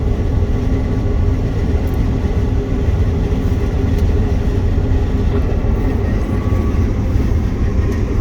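Claas combine harvester running steadily while harvesting, heard from inside the cab: a constant low drone with a faint steady whine above it.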